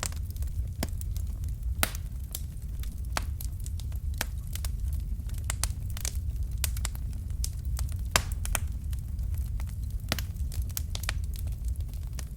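Fire crackling: irregular sharp pops and snaps, a couple of them louder, over a steady low rumble.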